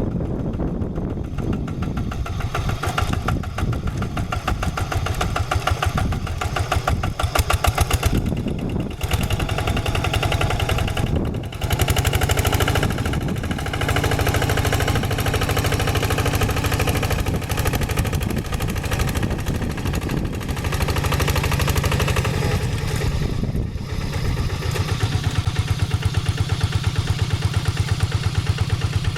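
Single-cylinder diesel engine of a two-wheel hand tractor running steadily as it works the soil, its level dipping briefly a few times.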